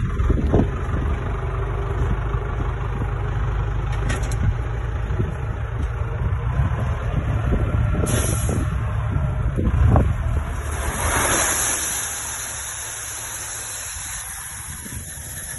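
ZIL-4585 dump truck's MMZ D-245 four-cylinder diesel running, with a short hiss of air about eight seconds in and a longer hiss around eleven seconds, after which the engine sound drops quieter.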